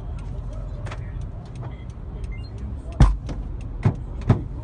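Car on the move heard through a dashcam: a steady low rumble of road and engine noise with scattered light clicks, and three sharp thumps about three, four and four and a half seconds in.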